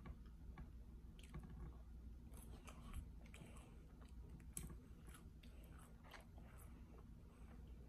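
Faint chewing of McDonald's french fries, with scattered soft mouth clicks.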